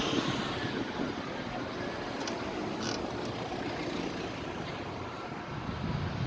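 Vehicle engines running, a steady rumble with no revving, and a couple of faint clicks.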